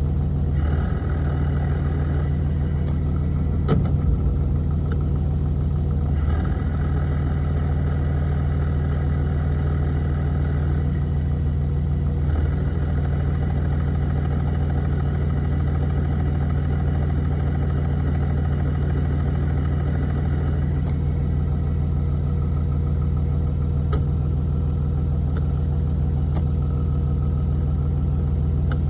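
6.7 L Cummins straight-six turbo diesel of a 2011 Ram 2500 idling steadily while it warms up after sitting for weeks, with a single short knock about four seconds in.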